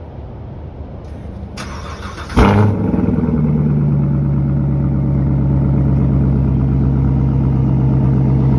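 Cold start of a 2017 Corvette C7 Stingray's 6.2-litre LT1 V8 with a muffler delete. The starter cranks briefly, the engine catches with a loud flare about two and a half seconds in, then settles into a steady fast cold idle.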